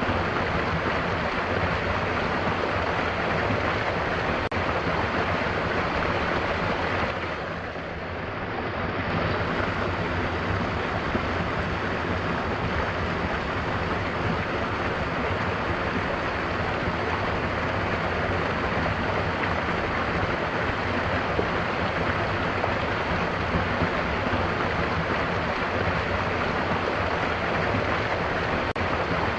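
Mountain waterfall: a steady rush of falling water that dips briefly in level about eight seconds in.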